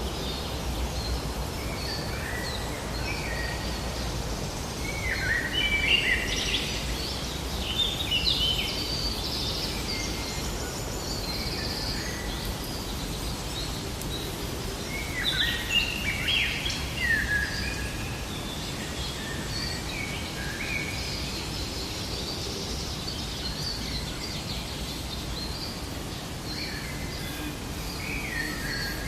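Birds chirping and trilling over a steady low background rumble, with busier bursts of calls a few seconds in and again about halfway through.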